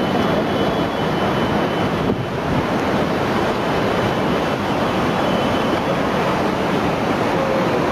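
Floodwater rushing and churning in a steady, loud, unbroken rush.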